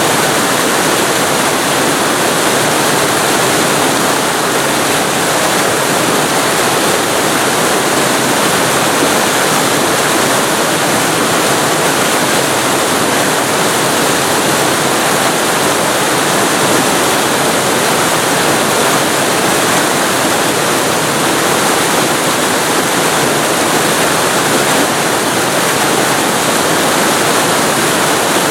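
Waterfall recorded very close to the falling water: a loud, steady rush with no changes.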